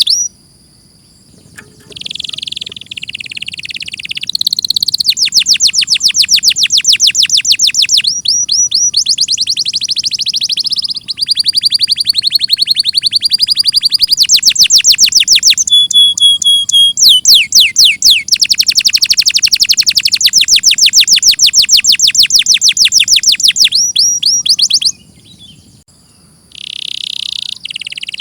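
Domestic canary singing a long song made of rapid trills, each phrase a fast run of the same high note repeated many times a second before switching to another. The song breaks off briefly about a second in and again near the end.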